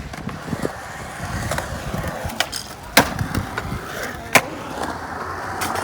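Skateboard wheels rolling with a steady noise, broken by sharp clacks of the board. The loudest clack comes about three seconds in and another about a second and a half later.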